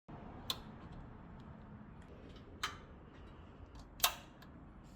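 Three sharp clicks and knocks of the engine-driven air compressor being handled before starting, the loudest about four seconds in, over a faint steady background.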